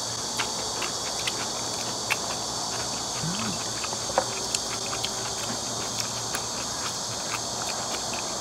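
Steady high buzzing of a summer insect chorus, with scattered small clicks and chewing from people eating kimchi and rice, chopsticks tapping glass bowls; one sharper click comes a little past four seconds in.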